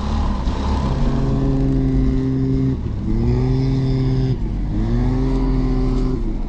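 Ski-Doo 850 snowmobile's two-stroke engine running under throttle in three steady pulls. The pitch dips and climbs back twice, about three and four and a half seconds in, as the throttle is eased and reapplied.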